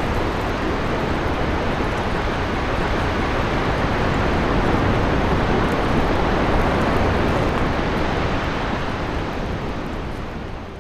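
A steady, loud rushing roar with a deep low end, swelling slightly mid-way and fading away near the end.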